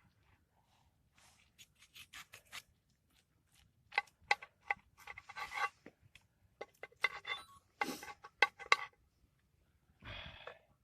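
Knife and metal utensils scraping and clinking against a Dutch oven while roast pork is carved and its crackling lifted off: irregular scrapes and sharp clicks, some with a short metallic ring.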